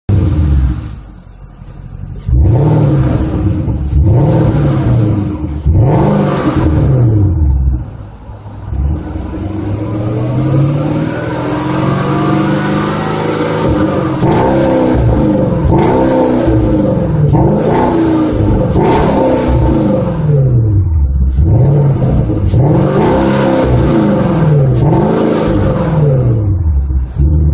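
2014 Porsche Cayenne GTS's 4.8-litre V8 through an aftermarket HE'ART exhaust system. A loud burst at the start settles briefly to idle, and then the engine is revved again and again, each rev rising and falling over a second or two, with one slower, longer rev in the middle.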